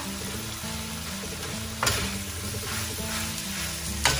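Rice stir-frying in a wok: sizzling and scraping as a metal spatula mixes it through the chilli paste, with two sharp clanks of the spatula on the wok, about two seconds in and near the end. Background music with held notes runs underneath.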